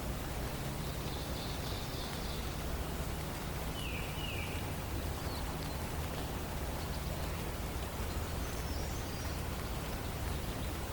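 Steady hiss of forest background noise with a few faint, brief songbird calls: a short high phrase about a second in, two quick falling notes around four seconds, and faint high notes near the end.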